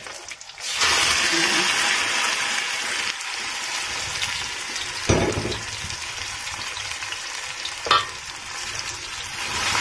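Thin sauce-coated beef slices hitting a hot oiled wok and sizzling, the frying hiss starting suddenly about a second in and easing off a little. Two sharp knocks of the metal spatula against the wok come about five and eight seconds in.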